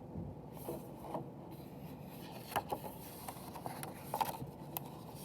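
Picture-book pages being handled and turned: paper rubbing and rustling, with a few small sharp ticks and taps.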